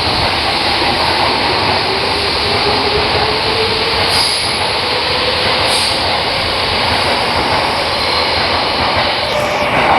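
Tokyo Metro 13000 series train passing through a station without stopping: a loud, steady rumble of wheels on rail, with a whine that slowly rises in pitch.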